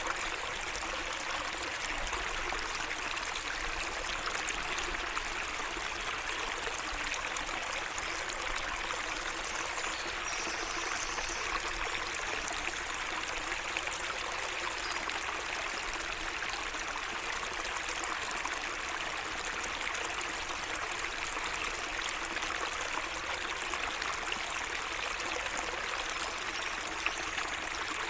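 A small garden stream running steadily, with an even trickling and babbling of water.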